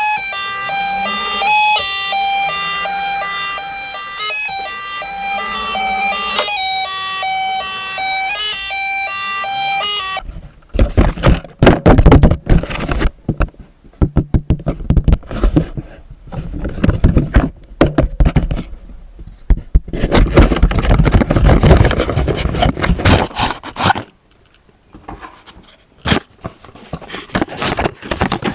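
A toy's electronic sound chip playing a repeating tune of short beeping notes, which cuts off about ten seconds in. After that, irregular rustling, crinkling and handling of plastic packaging, loud and uneven.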